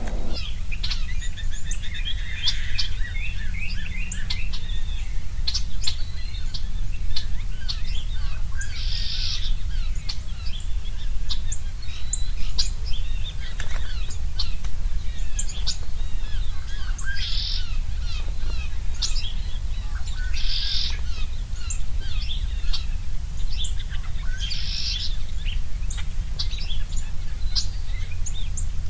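Songbirds chirping and calling, with a short buzzy call repeating every three to four seconds, over a steady low rumble.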